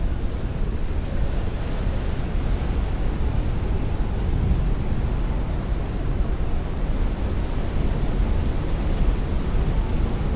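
Heavy rain beating on a window with strong wind rushing, a steady, dense roar weighted to the low end.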